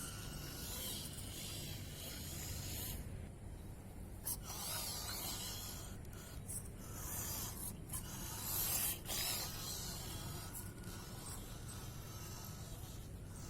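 Small-scale RC truck driving through sand, its tyres churning and spraying sand in several hissing bursts of a second or more each.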